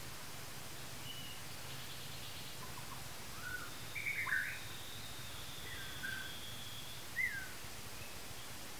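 Forest birds giving short chirping calls, a few scattered notes with the loudest cluster about four seconds in and another sharp chirp about seven seconds in, over a steady background hiss. A thin, high, steady whistle is held for a couple of seconds in the middle.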